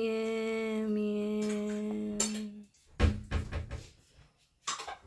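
A woman's voice holding one long, steady sung note, which stops about two and a half seconds in. About three seconds in there is a sharp knock, followed by brief rustling and handling noises.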